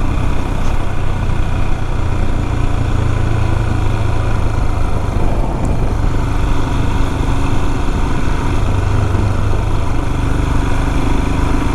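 Royal Enfield Himalayan single-cylinder motorcycle engine running steadily while riding at an easy pace, with road and wind noise.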